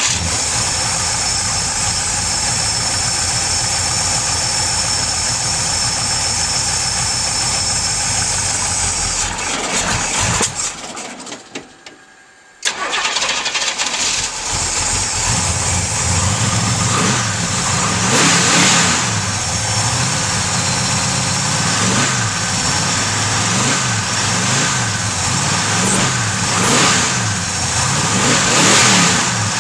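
Big-block 455 V8 running on E85 through FiTech fuel injection during a cold start: it runs steadily for about nine seconds, then stumbles and dies. It is started again about thirteen seconds in and keeps running, its speed rising and falling repeatedly as the cold-start tuning is worked out.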